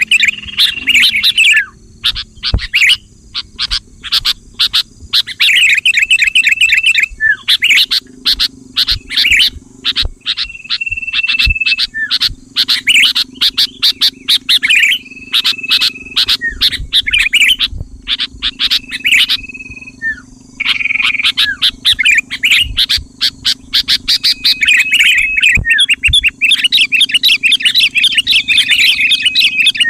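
Sooty-headed bulbul (kutilang) calling in bursts of rapid bright chirps, mixed with short held whistled notes, broken by brief pauses. A faint steady low hum runs underneath.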